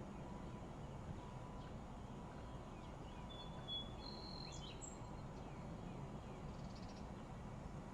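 Faint steady outdoor background noise with a few short, high bird chirps and whistles about three to five seconds in.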